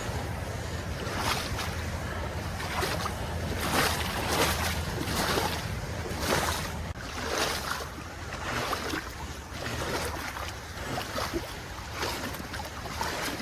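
Steady walking footsteps, with a swish or splash on each step, about one and a half steps a second.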